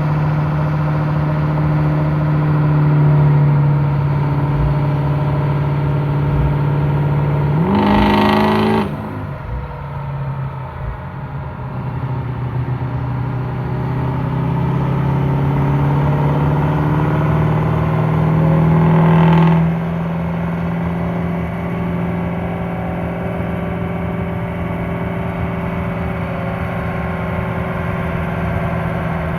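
A truck's 6.0-litre engine running hard under load on a dyno, with a strong steady drone from the drivetrain. Twice, about 9 and 20 seconds in, the pitch shifts and the sound drops sharply in loudness, then builds again.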